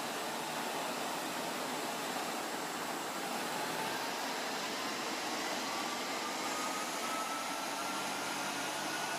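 Steady rushing air noise like a large cooling fan, with a faint whine slowly rising in pitch. This is a 1996 Pontiac Grand Prix GTP with a 3.4 L DOHC V6 on a chassis dynamometer, gently gaining speed at light throttle.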